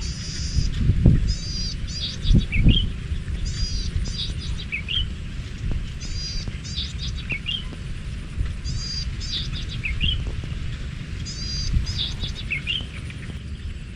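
A songbird repeating the same short phrase about five times, roughly every two and a half seconds: a burst of high twittering notes followed by a lower slurred note. Underneath, wind rumbles on the microphone, with stronger gusts in the first few seconds.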